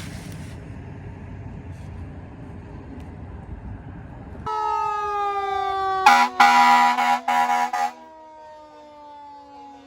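Fire engine's siren sliding slowly down in pitch, with several loud air-horn blasts over it; before the siren comes in, a low steady rumble.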